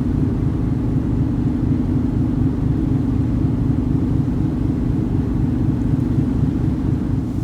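Passenger ferry's engine running in a steady low rumble, heard on board as the ship gets under way from port.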